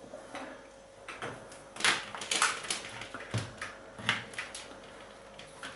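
Scattered light clicks and knocks of an object being handled, irregular and a few to the second at most, over a faint steady hum.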